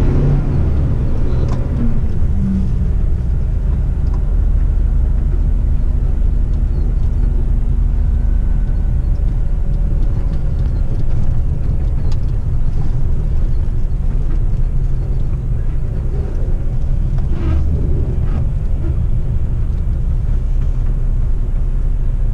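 Heavy rigid truck driving on a dirt road, heard from inside the cab: a steady, loud, low diesel engine and tyre noise, with a few faint knocks and rattles.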